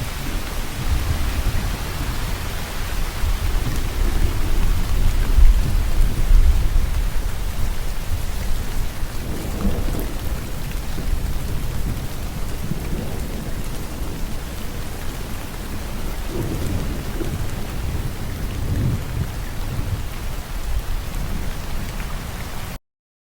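Steady heavy rain with low rolling thunder, the rumble loudest about five seconds in. The sound cuts out abruptly for a split second near the end.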